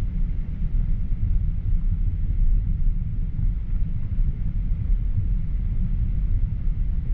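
Steady low rumble of a Boeing 737-800 heard inside the cabin, even and unchanging.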